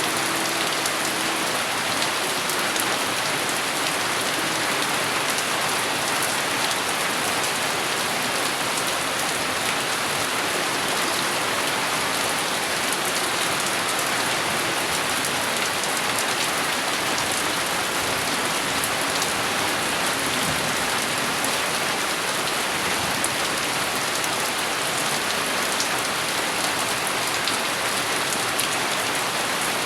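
Steady heavy rain falling on a surface, a dense even hiss flecked with individual drop impacts.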